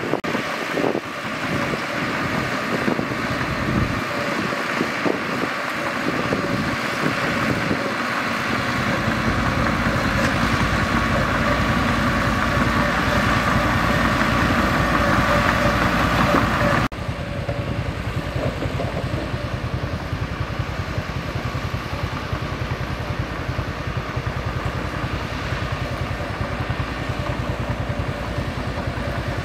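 Mitsubishi bulldozer's diesel engine running steadily, louder through the first half, then dropping abruptly to a quieter, steady running a little past halfway.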